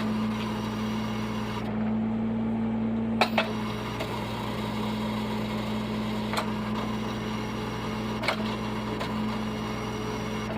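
Tow truck engine idling with a steady hum, broken by a few short sharp clicks about three, six and eight seconds in.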